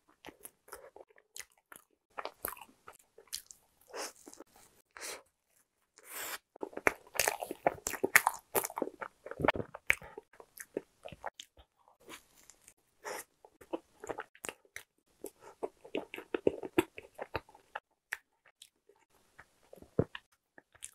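Close-up crunchy biting and chewing of a deep-fried Korean salad bread (sarada-ppang) with a crisp breadcrumb crust. Bouts of crackly crunching come thickest in the middle and again later, with quieter chewing between them.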